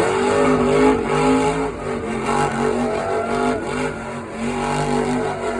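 Monster truck's supercharged big-block V8 revving hard, the throttle pulsing in short surges about two or three times a second.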